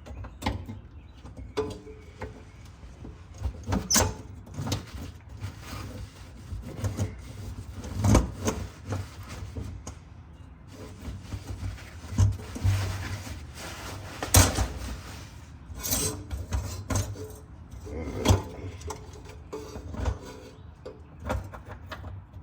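Hand tools and metal parts being handled while clamping a fuel hose: scattered clicks, knocks and clinks, with a few seconds of rustling noise about twelve seconds in.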